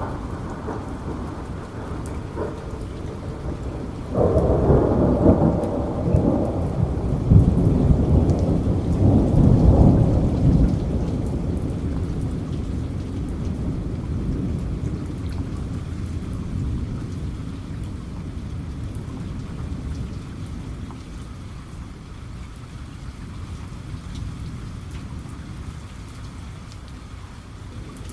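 Steady heavy rain, with a roll of thunder breaking in suddenly about four seconds in, swelling into a deep rumble and then slowly fading away under the rain.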